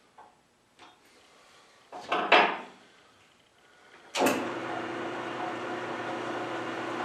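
Metal clanking and scraping as a drill chuck is set and clamped in a lathe's 3-jaw chuck, loudest about two seconds in. About four seconds in, a steady mechanical hum starts abruptly and carries on.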